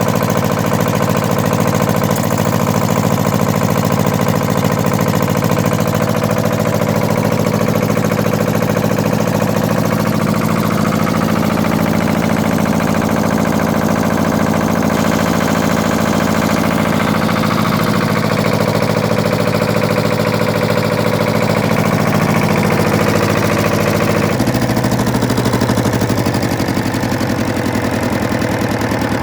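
Lister HA2 two-cylinder air-cooled diesel engine running steadily with an even, rapid firing beat; its note changes abruptly about three-quarters of the way through.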